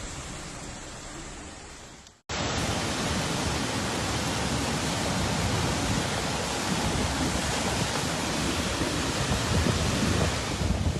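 Steady rushing noise of storm and floodwater. A quieter, fading stretch cuts off about two seconds in, and a louder, even rush follows.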